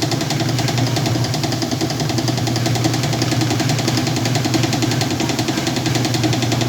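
Whirlpool washing machine running with a load of blankets: a steady motor hum with a fast, even rattle.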